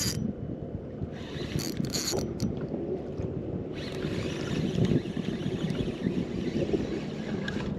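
Wind buffeting the microphone on a fishing kayak, with short rustling bursts near the start and about two seconds in, and a steadier hiss joining from about four seconds in.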